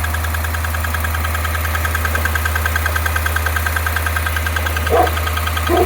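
The 5.3-litre V8 of a 2017 Chevrolet Tahoe idles just after start-up with a fast, even ticking: an exhaust leak at a loose exhaust manifold bolt on the right side. A couple of short, louder pitched sounds come in near the end.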